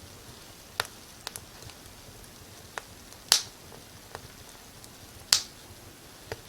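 Wood fire in a fireplace crackling: about seven sharp pops and snaps at irregular intervals, two much louder than the rest about two seconds apart in the middle, over a faint steady hiss.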